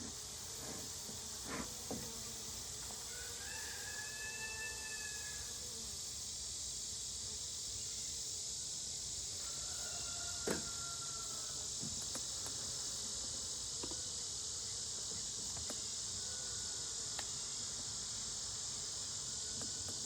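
A steady high-pitched insect chorus of crickets or cicadas shrilling without a break. It is broken by a few sharp knocks of wooden hive parts being handled; the loudest knock comes about ten seconds in.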